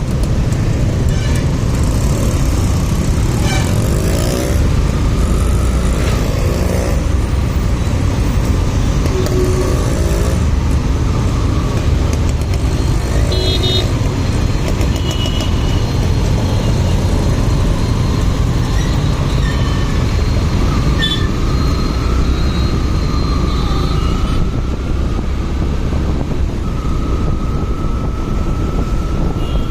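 Motorcycle riding in traffic: a steady rumble of engine, road and wind, with a few short horn toots from surrounding traffic.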